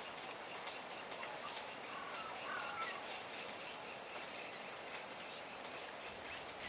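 A steady patter of falling wet snow, with a few faint bird chirps about two to three seconds in.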